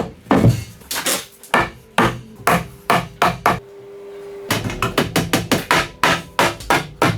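Hammer striking repeatedly, about two to three blows a second, with a break of about a second midway and then a quicker run of blows.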